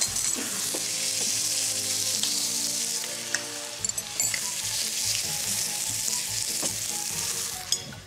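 Food sizzling as it fries in a pot on the hob, a steady hiss, while it is stirred with a spoon; a few light knocks sound during the stirring.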